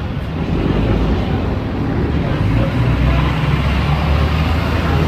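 Steady low rumble and noise of a vehicle in motion, growing louder about a second in.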